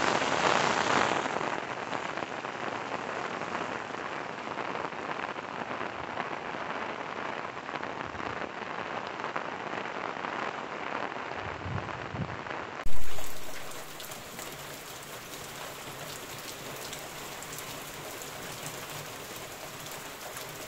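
Heavy rain pouring down onto a paved street, a steady dense downpour. About thirteen seconds in the rain sound changes abruptly, opening with a sudden loud crash that fades away over about a second before steady rain carries on.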